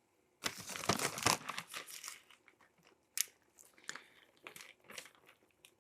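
Mini chaffle maker being closed on its cheese and egg, a second of rustling and clattering, then scattered small crackles and pops.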